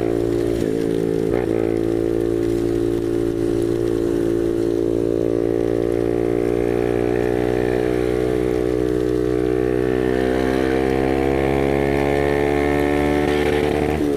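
Motorcycle engine under way, pulling steadily with its pitch slowly climbing as it gains speed, with a brief dip about a second and a half in and a gear change near the end.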